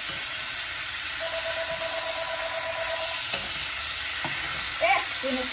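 Food sizzling steadily as it fries in hot oil in a pan, with a steady pitched tone for about two seconds in the middle and a brief vocal sound near the end.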